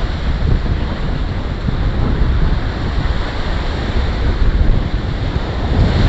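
Ocean surf washing in on a beach, with wind buffeting the microphone in an uneven, low rumble over it.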